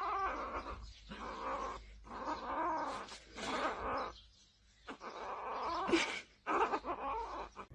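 A domestic cat meowing over and over: about six long, drawn-out meows with short breaks between them.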